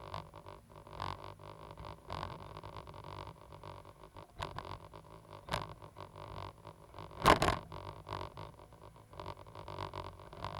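Caterpillar 320GC hydraulic excavator running, a steady low engine drone with scattered knocks and clatters, and one loud short clatter about seven seconds in.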